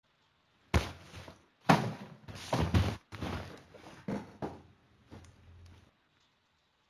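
A series of thumps and knocks, about eight in five seconds, the loudest two in the first two seconds.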